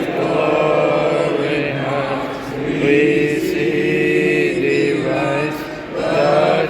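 Voices singing a slow melody in a large echoing arena, with long held notes.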